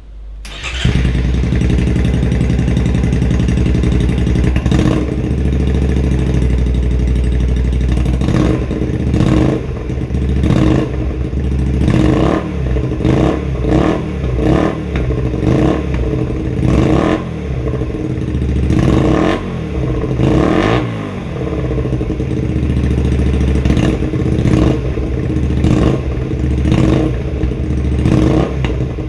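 Honda Varadero XL 125 V's 125 cc V-twin engine running through its exhaust, starting up about a second in and then revved repeatedly, the pitch rising and falling with each blip of the throttle.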